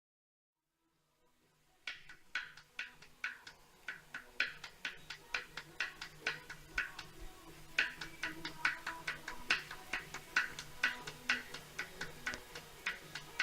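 Smart Roadster's three-cylinder petrol engine running with sharp knocks about twice a second over a faint low hum, starting about two seconds in. This is piston slap, typical of a cold engine, which the owner puts down to excess piston-to-cylinder clearance from cylinder wear.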